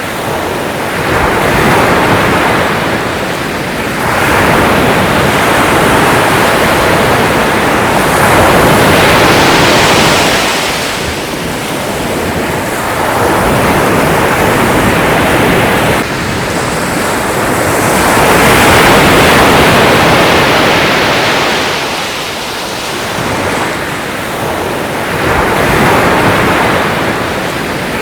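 Sea surf: waves breaking and washing in, a continuous rush that swells and eases every few seconds.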